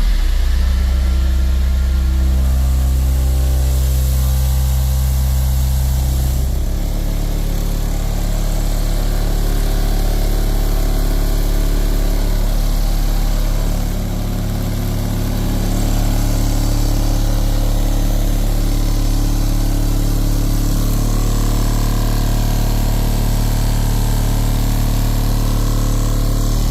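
Two competition car-audio subwoofer systems playing sustained deep bass notes at extreme volume during a sound-pressure-level run, the notes changing a few times. The systems are being metered for their peak bass output.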